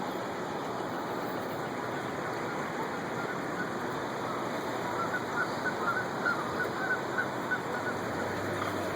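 Steady rushing of the flooded river's current. About halfway through, a flock of geese breaks into a quick run of honks, about four a second, for a few seconds.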